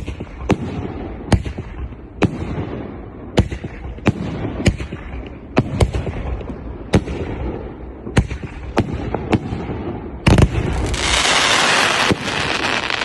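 Hurricane 50-shot 2.5-inch firework cake firing: a sharp shot roughly every half-second to second, each trailing off briefly. About ten seconds in comes a louder burst, and a dense crackling hiss fills about two seconds.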